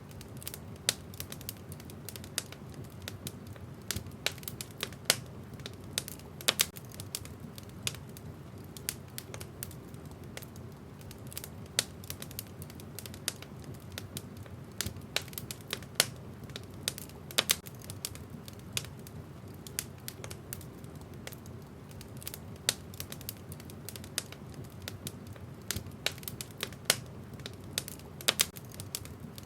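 Wood fire in a fireplace crackling, with frequent irregular sharp pops from the burning logs over a low steady rumble of the flames.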